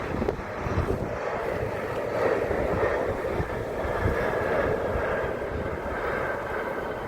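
Airliner engines, a steady rumble that builds over the first two seconds, with a faint high whine falling slightly near the end. Wind buffets the phone's microphone.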